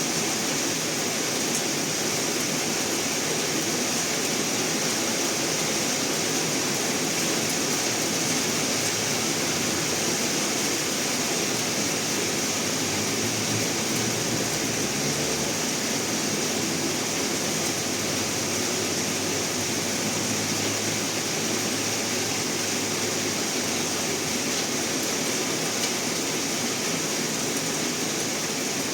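Steady rain falling, an even hiss of water throughout.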